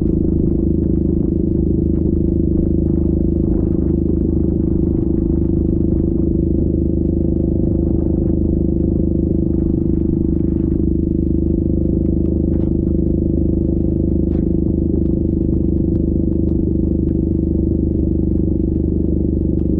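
Yamaha Grizzly 700 ATV's single-cylinder engine running at a steady speed, one unchanging drone, with a few faint ticks and clatters over it.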